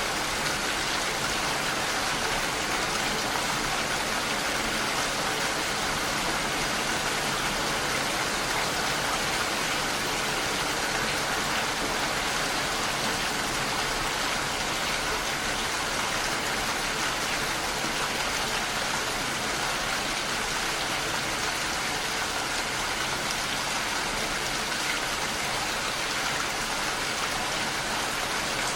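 Heavy rain falling steadily against a window, an even dense hiss of drops.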